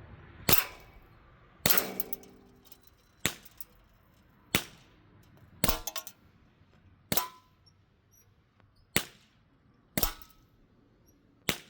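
CO2-powered Z77 BB gun firing nine shots at an uneven pace, about one every second or two, each a sharp crack. Several shots are followed by a short metallic ring.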